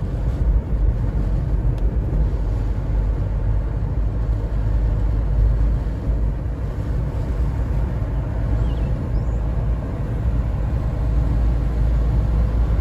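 A car on the move: steady low rumble of engine and road noise.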